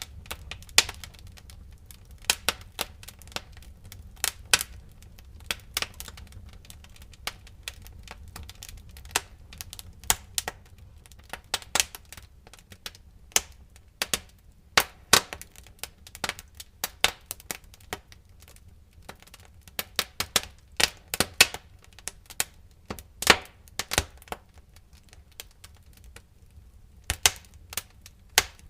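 Firewood burning in a fireplace, crackling with irregular sharp pops and snaps, some much louder than others, over a steady low rumble of the flames.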